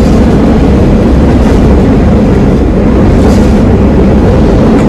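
JR Gotōji Line diesel railcar running, heard from inside the carriage: a loud, steady low rumble of the engine and the wheels on the rails.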